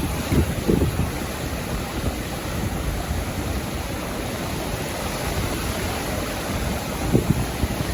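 Sea waves washing onto a beach, a steady rush of surf. Wind buffets the microphone in low gusts at the start and again about seven seconds in.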